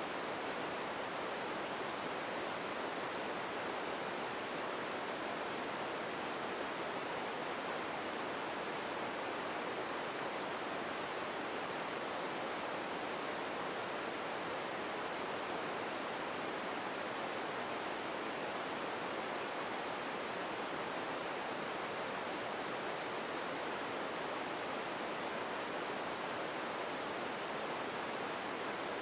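Empty-ambience noise: a steady, unchanging hiss, fullest in the middle pitches and thin in the deep lows, with no distinct events.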